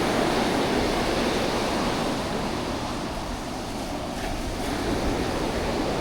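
Sea surf washing onto the beach in a steady rush, swelling near the start, easing in the middle and building again near the end.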